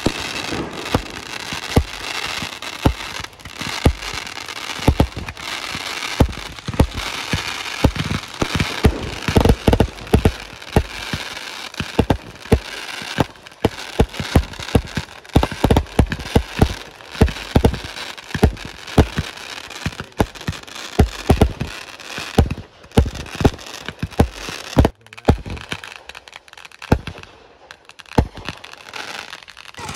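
Fireworks going off in rapid succession: frequent sharp bangs over a steady crackle. They thin out to a few scattered bangs near the end.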